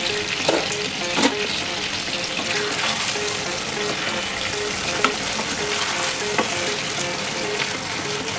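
Chicken curry sizzling and frying in a nonstick pan while a wooden spatula stirs it, with a few sharp knocks of the spatula against the pan.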